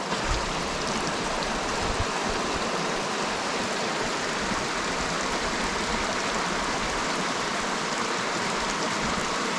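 Mountain stream water rushing and splashing over rocks, a steady even rush of water.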